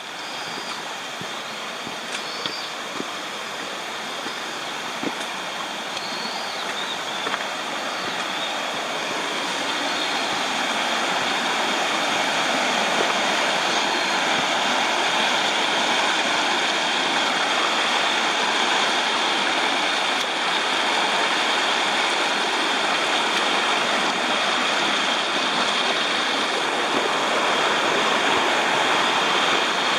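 Water rushing steadily, as in a stream or small waterfall. It grows louder over the first ten seconds or so, then holds steady. A few faint high chirps come in the first several seconds.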